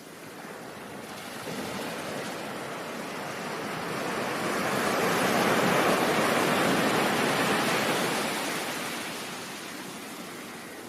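Ocean surf: a wave's wash swells up, peaks about halfway through, then eases back down.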